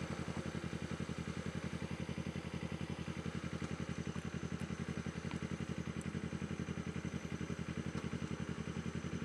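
Kawasaki Ninja 250's parallel-twin engine running at low, steady revs with an even, rapid pulse as the motorcycle rolls slowly along.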